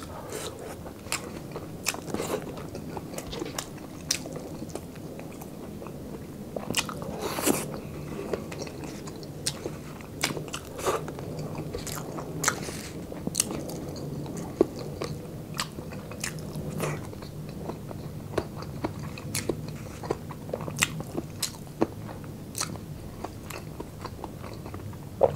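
Close-miked mukbang eating: a person chewing and biting food by mouth, with frequent irregular sharp smacks and crunches. The food is tender braised beef, then pork sisig of chopped pig ear and jowl.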